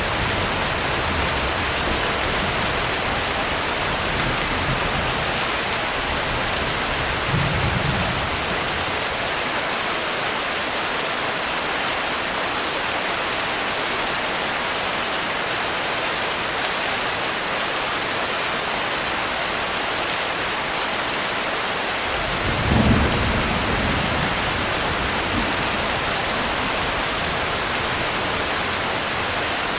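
Steady rain falling with thunder: a low rumble that dies away over the first eight seconds after a short swell, then another rumble building and peaking about two-thirds of the way through.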